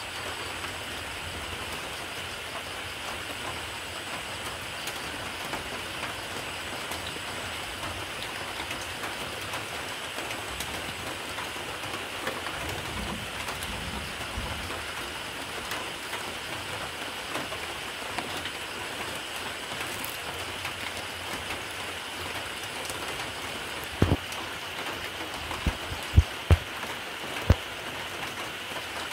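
Steady rain falling, with fine scattered drop ticks throughout. Near the end, about five sharp, louder knocks come in quick succession.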